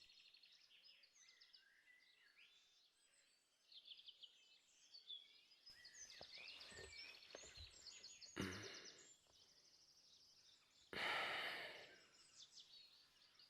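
Quiet ambience of small birds chirping and trilling, with two short breathy rushes of noise, the louder about eleven seconds in.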